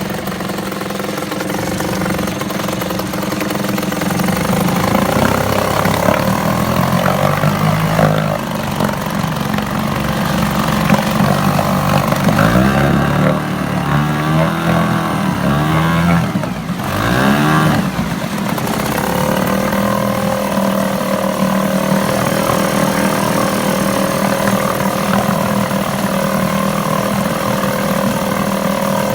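Yamaha 2 hp outboard motor running, first steadily, then revved up and down repeatedly through the middle, then settling back to a steady run.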